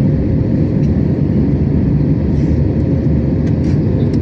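Steady cabin drone of an Airbus A321neo in flight, heard from inside the cabin: a loud, even low rumble of engine and airflow noise with a thin steady hum.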